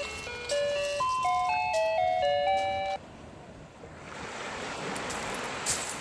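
A simple electronic chime melody, one plain note at a time, stepping up and down every quarter to half second, stops abruptly about three seconds in. A steady rushing wash of surf then builds up from about four seconds in.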